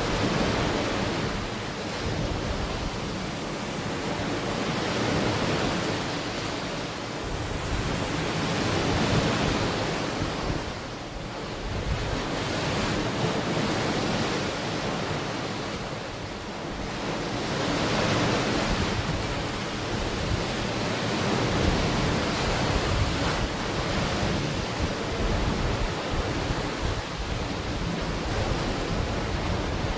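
Ocean waves breaking and washing onto a beach, a steady rush of surf that swells and eases every few seconds, with some wind on the microphone.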